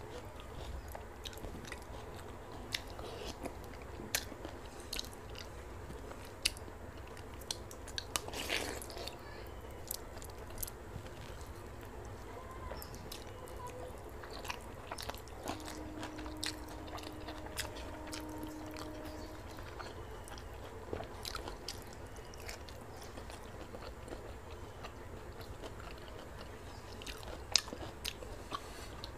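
A person chewing and crunching food close to the microphone while eating pakhala (fermented water rice) with vegetable sides by hand: many short crunches and mouth clicks over a steady low hum.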